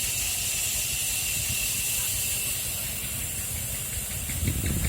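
Steady hiss over a low rumble, with the rumble growing louder near the end.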